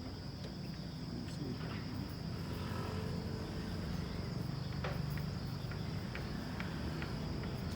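Steady high-pitched insect chorus buzzing without a break, over a low steady rumble.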